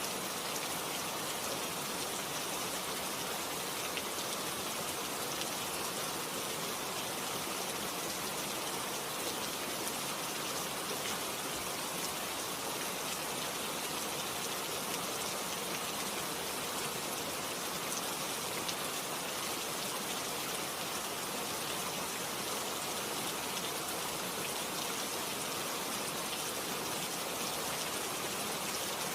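Steady rainfall, with many drops pattering on surfaces in an even, unbroken hiss.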